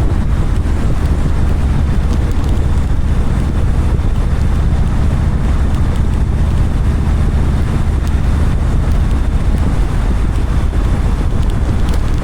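Steady wind rush buffeting the microphone over a low engine and road rumble, the sound of a motorcycle riding at speed.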